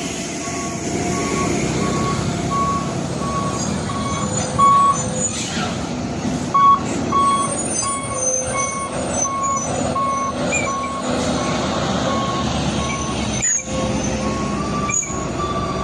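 Heavy truck's engine running on the climb, with an electronic warning beeper sounding steadily about every 0.7 seconds. Two short sharp sounds come near the end.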